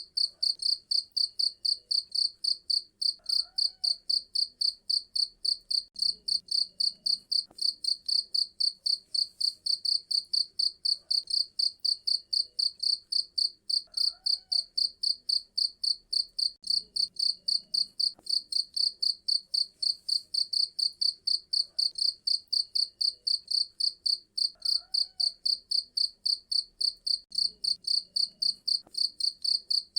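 Cricket chirping in an even, unbroken rhythm of high-pitched pulses, about three to four a second.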